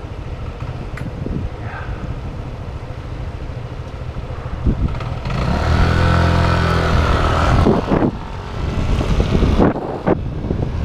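Riding noise on a bicycle-mounted microphone, a steady low rumble and hiss, with a motor vehicle passing close about five seconds in, its engine loud for two or three seconds before fading.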